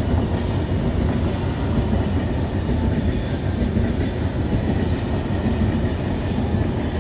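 Train moving through the station, a steady rumble of wheels on the rails.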